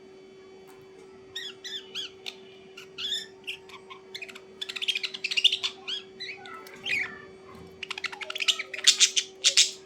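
A bird calling: a run of short chirps from about a second and a half in, then harsh squawks around five seconds and again near the end.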